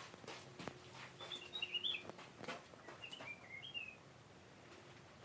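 Faint bird chirps: a short run of quick chirps about a second in and another just after the middle, among scattered soft clicks and knocks.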